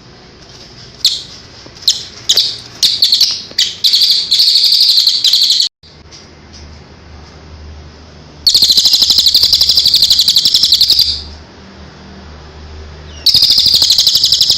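A songbird singing: a few sharp chirps that come faster and faster and run into a rapid, high, buzzy trill, which cuts off abruptly. Then come two more long rapid trills, the first lasting about two and a half seconds, the second starting near the end.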